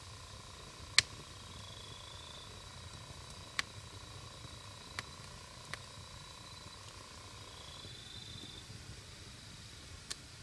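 Wood campfire burning with a low steady rush, broken by sharp pops from the burning logs: a loud one about a second in and smaller ones a few seconds apart, the last near the end.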